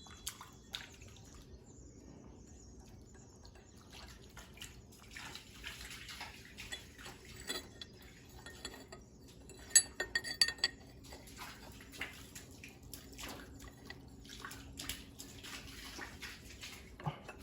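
Light metallic clinks and scraping from a removed engine cover plate and other metal engine parts being handled, with a cluster of sharper clinks about ten seconds in.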